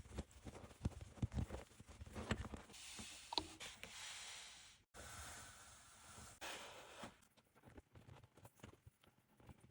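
Faint scraping and rubbing of hand work on an old leather baseball glove, with scattered small clicks and knocks. The rubbing comes in two stretches in the middle, then only a few light ticks near the end.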